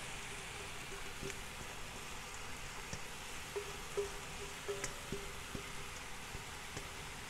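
Vegetables sizzling steadily in a hot pot while chopped kale, carrot and cilantro are scraped in from a metal bowl with a silicone spatula, with a few light taps and clicks of spatula and bowl, most of them a little past the middle.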